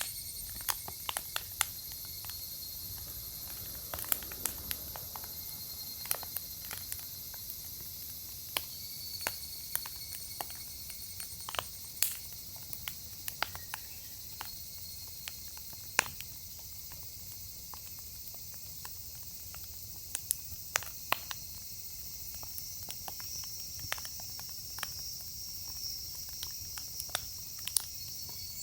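Firewood logs burning in a fire pit, crackling with sharp irregular pops and snaps, the loudest about 12 and 16 seconds in, over a steady high insect trill.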